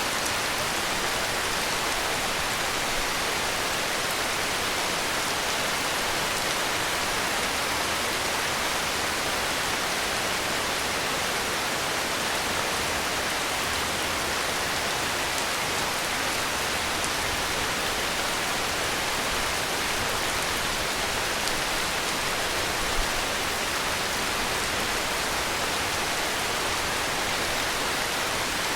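Heavy rain falling steadily: an even, unbroken hiss of rainfall with no thunder.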